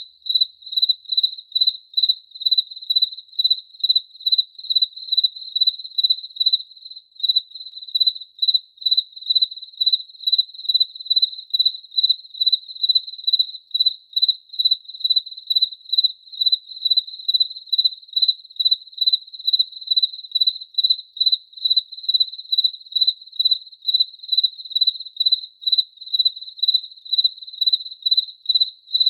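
A cricket chirping steadily: a single high chirp repeating about two to three times a second, with a brief break about seven seconds in.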